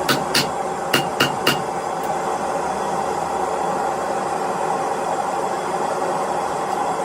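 Blacksmith's hammer striking hot steel on an anvil, five ringing blows in quick succession in the first second and a half, then stopping. A steady rushing noise continues underneath.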